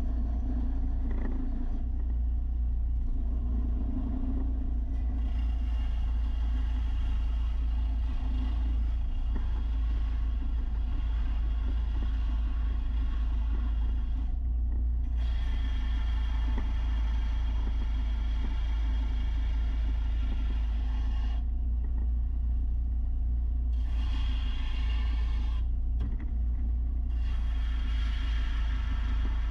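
Belt sander with 300-grit paper running steadily, grinding the edge of a steel mower blade; the grinding hiss drops out briefly a few times over a constant low hum.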